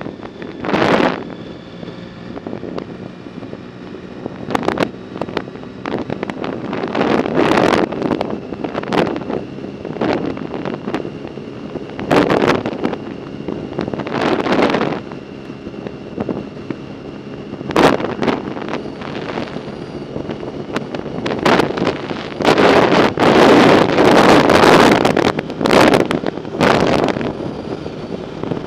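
Wind buffeting the microphone of a moving bicycle, in irregular loud gusts over a steady rush.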